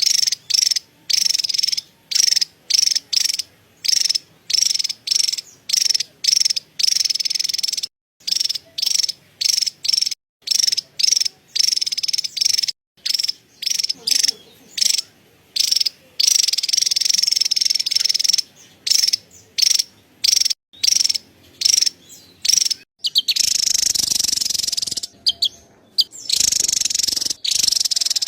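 Javan tesia's chattering call: dry, high-pitched, rapid chatters in short bursts separated by brief gaps, running together into a longer chatter near the end.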